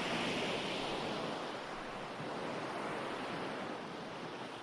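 Ocean waves breaking on a shore, a steady wash of surf that swells near the start and slowly eases.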